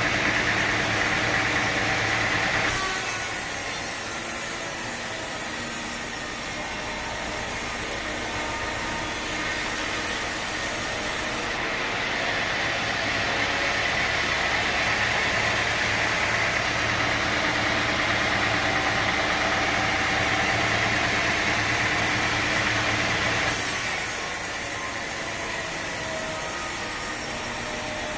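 Sawmill engine running steadily, its sound changing abruptly about 3, 12 and 24 seconds in.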